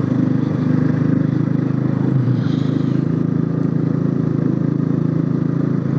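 Motorcycle engine running steadily at a constant cruising speed, an even low drone with no change in revs.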